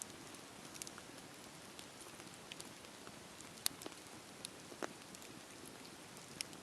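Campfire burning: a steady soft hiss with scattered sharp crackles and pops from the wood, the loudest two a little past halfway.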